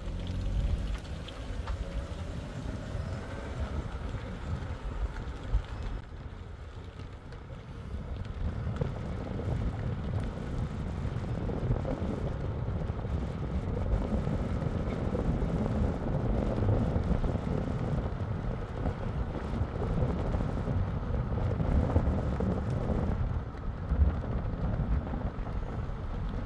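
Car moving along a road: a steady low rumble of road and engine noise, with wind buffeting the microphone. It grows a little louder about eight seconds in.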